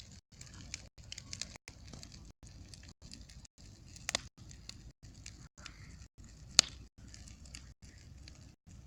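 Bonfire crackling with scattered small snaps and sharp pops, a strong pop about four seconds in and the loudest one about six and a half seconds in. The sound cuts out briefly about twice a second.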